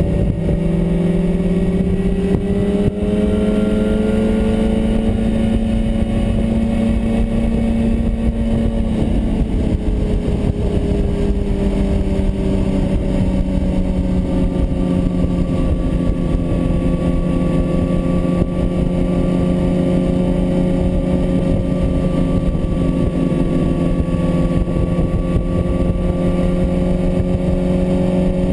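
Sport motorcycle engine running at highway speed in fourth gear, with wind noise over the microphone. The engine note climbs slightly over the first several seconds, eases off about nine seconds in, then holds steady.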